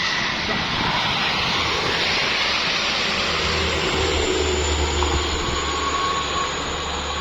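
Heavy truck driving past at speed: loud, steady road and engine noise, with a deep engine drone coming in about halfway through.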